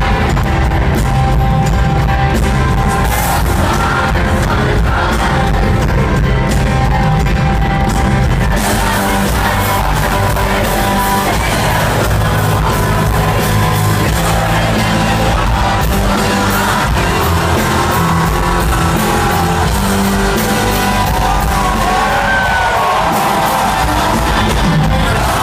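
Live rock band playing in a large hall, with singing and scattered crowd yells.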